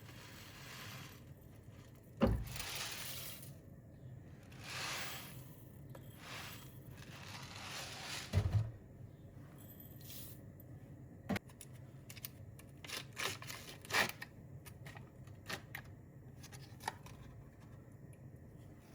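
Rustling and tearing of material being handled, like paper or packaging for crafts, with two dull thumps, one about two seconds in and one about eight seconds in, then a run of light clicks in the second half.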